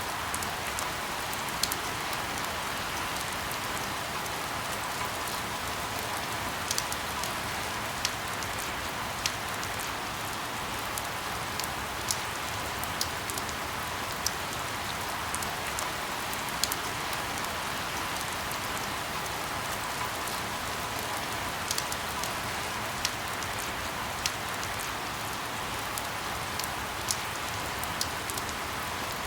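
Steady rain falling, an even hiss with sharp individual drops pattering on a surface every second or so.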